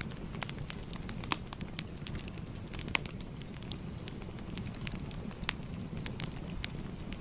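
Wood fire crackling: irregular sharp pops and snaps, the loudest about a second and three seconds in, over a steady low rumble of burning.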